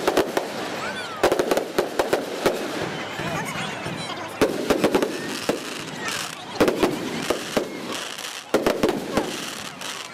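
Aerial fireworks bursting in quick clusters of sharp bangs, with crackling and whistling between them, played back at double speed.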